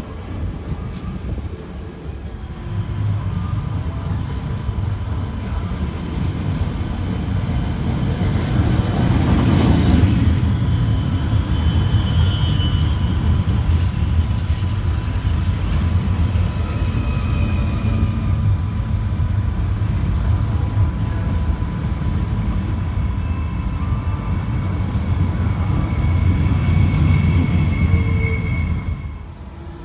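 Regio 2N double-deck electric commuter train running past along the platform: a steady rumble of wheels on rail that swells to a rush as the front passes, about nine seconds in. It cuts off suddenly near the end.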